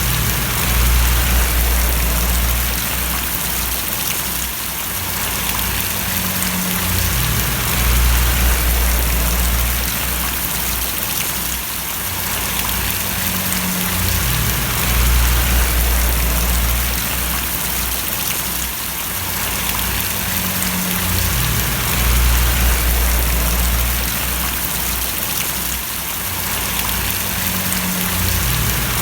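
Steady rain splashing, with a low rumble that swells and fades about every seven seconds.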